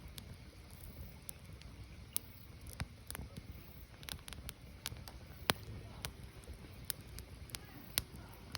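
Firewood burning: irregular sharp crackles and pops over a low, steady rumble of the fire, with the loudest pop about halfway through.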